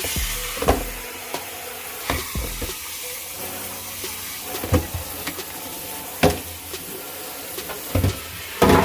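Hot tap water running steadily into a kitchen sink while the coffee maker's parts are washed, with knocks and clunks every second or two as they bump the sink.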